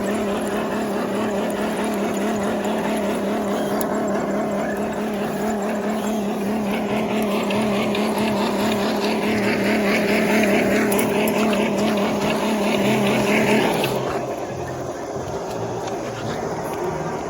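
Radio-controlled truck's electric motor and gear train running with a steady whine, growing louder and harsher for several seconds before cutting off about fourteen seconds in.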